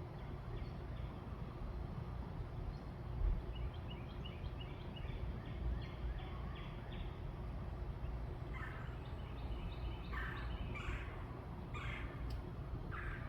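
Birds calling: a quick run of short, high notes in the middle, then several louder, harsher calls near the end, over a steady low background rumble.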